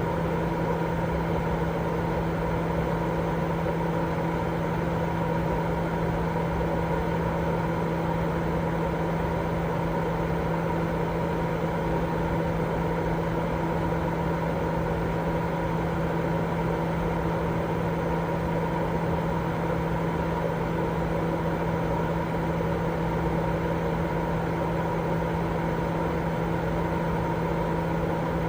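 Continuous baby-sleep white noise: an unbroken, even rushing hiss, heavier in the low and middle range than in the highs, with a constant motor-like hum of a few steady tones running through it.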